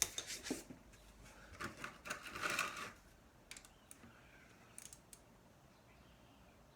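Clicks and scrapes of a 17 mm socket wrench working on a motorcycle's rear oil drain plug: quick runs of clicks and a scraping rasp in the first three seconds, then a few single ticks.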